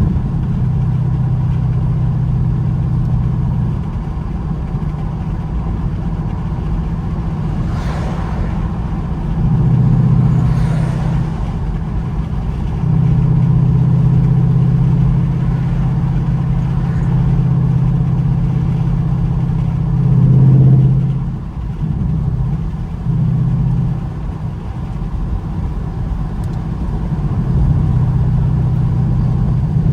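Ford Mustang GT's 5.0-litre V8 running under way, a steady exhaust drone that grows louder in stretches as the throttle opens, with a brief swell of revs about two-thirds of the way through.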